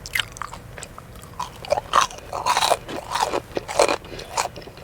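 A person chewing a crispy fried chicken tender: a run of crunches, about two a second.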